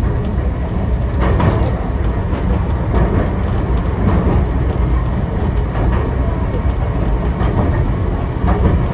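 Enoshima Electric Railway train running slowly through a tunnel: a steady low rumble of wheels and motors, with a few scattered knocks from the running gear.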